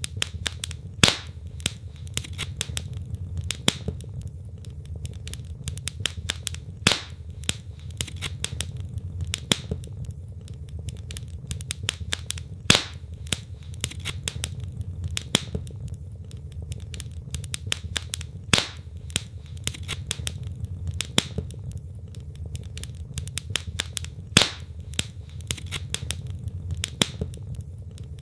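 Wood logs burning in a fireplace: a steady low rumble of flame under dense crackling, with a louder sharp pop about every six seconds.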